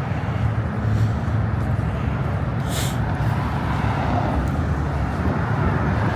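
Car engines running with a steady low rumble as cars pull out, with a brief hiss about three seconds in.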